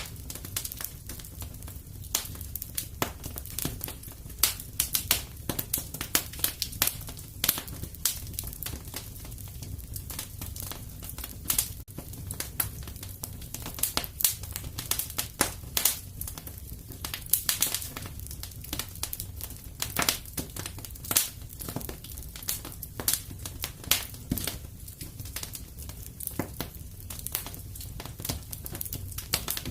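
Fire in a fireplace crackling: irregular sharp pops and snaps, several a second, some louder than others, over a low steady rumble.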